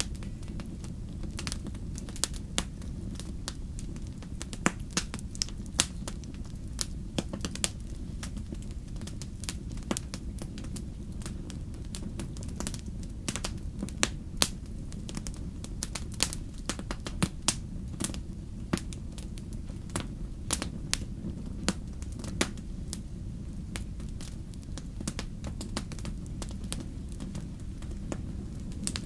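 Campfire crackling and popping: irregular sharp snaps, a few louder pops among them, over a steady low rumble of the burning fire.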